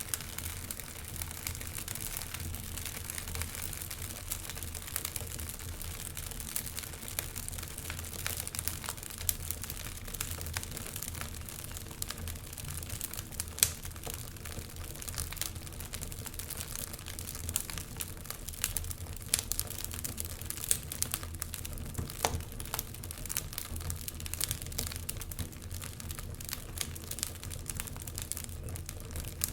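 Wood fire crackling in a fireplace: a steady stream of small pops and snaps, with one sharp, louder pop about halfway through, over a low steady rumble.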